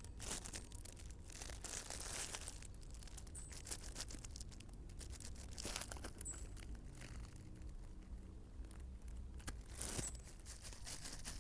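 Irregular crinkling and rustling handling noise with scattered sharp crackles.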